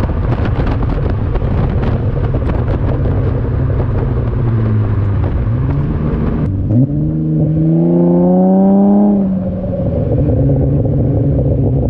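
A 2007 Acura TL's V6 heard through a custom exhaust with a Cherry Bomb glasspack and short-body mufflers while the car is driven. Rushing wind and road noise over the first half cuts off abruptly. The engine note then dips and rises steadily in pitch for a couple of seconds in an acceleration, peaks and falls back.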